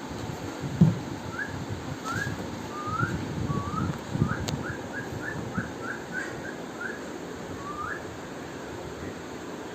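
A bird calling: a run of about a dozen short rising whistled notes, coming faster in the middle, over a low uneven rumble.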